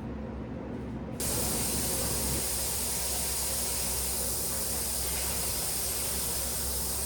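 A steady hiss, like spraying water or steam, that starts suddenly about a second in.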